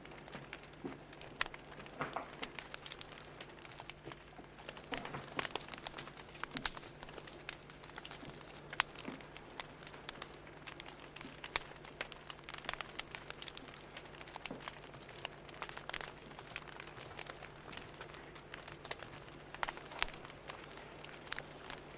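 Fire crackling: irregular small pops and snaps, some louder than others, over a faint steady hum.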